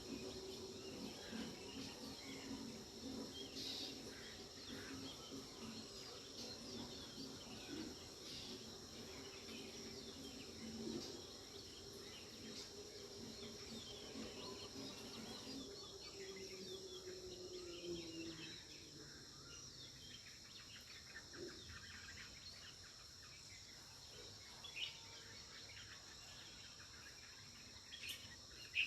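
Faint outdoor nature ambience: a steady high insect drone with scattered bird chirps. A low hum underneath drops in pitch and fades out about two-thirds of the way through.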